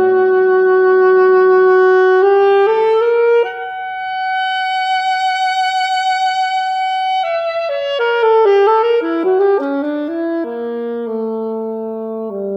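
Violin and piano playing: the violin holds long notes with vibrato, one of them for several seconds in the middle, then moves through a quicker run of notes over piano chords.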